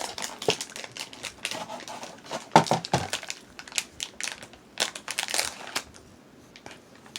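Crinkling of a snack packet being handled and opened: a run of irregular crackles that dies down near the end.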